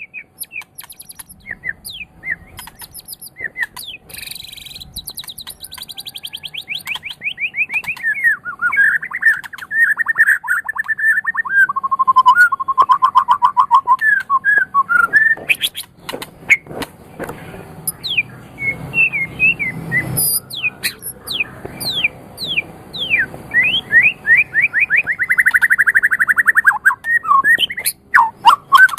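White-rumped shama (murai batu) singing a long, varied song: fast runs of rapidly repeated notes and trills, mixed with a few sharp clicks.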